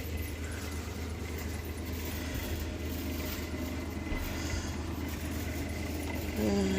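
Steady low background hum with a faint, thin high tone over it, and a brief voice-like sound near the end.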